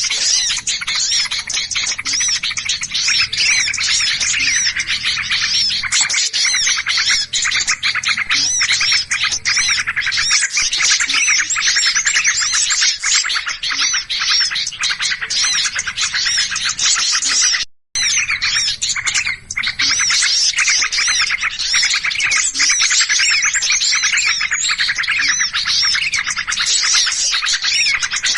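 Dense, noisy chorus of many small songbirds chirping and twittering at once: a bird-trapping lure recording of agitated small birds. The chatter is continuous and high-pitched, breaking off for an instant about 18 seconds in.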